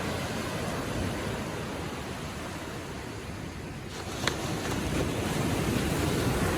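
Small ocean waves washing gently onto a beach: a steady rush that eases a little and then swells again in the second half. A single short sharp tick sounds just past the middle.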